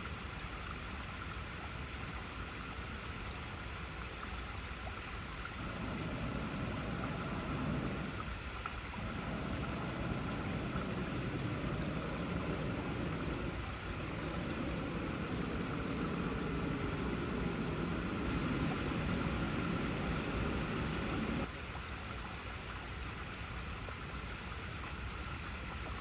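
Water flowing over icy rocks in a steady rush. About six seconds in, a deeper, louder rushing layer joins it, dips briefly twice, and cuts off suddenly about five seconds before the end.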